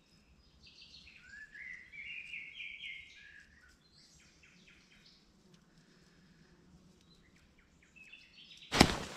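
A songbird singing a phrase of stepped, mostly falling whistled notes, then later a quick run of short chirps. Near the end a sudden loud crack sets off a noisy hiss that carries on.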